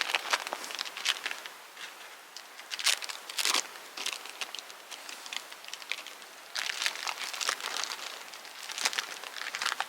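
Irregular crackling and crinkling from campfire kindling, coming in clusters of sharp snaps with quieter stretches between.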